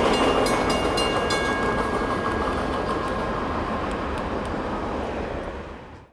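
Freight train boxcars rolling past on steel wheels and receding, the rumble fading away steadily, with a thin high wheel squeal and light clicks of wheels over rail joints in the first few seconds; the sound cuts off suddenly at the very end.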